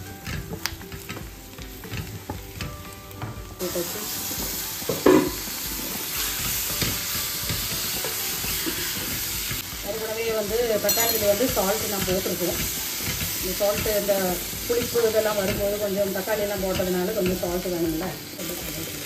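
Onion, tomato and spice masala sizzling as it fries in a non-stick kadai, with a wooden spatula stirring and scraping against the pan. The sizzle grows louder about four seconds in.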